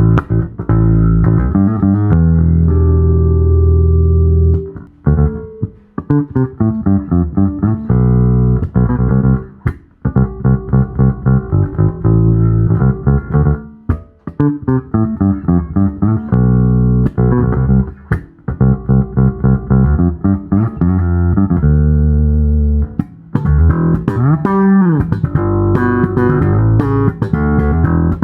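Sadowsky MX20 UV4 four-string electric bass played solo. It mixes held notes with quick staccato runs, and has a few sliding notes near the end.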